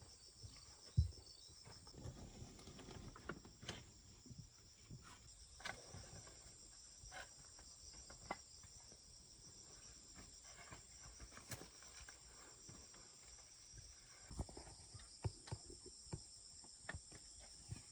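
Faint steady chorus of insects trilling high, with scattered light knocks and taps throughout and a low thump about a second in.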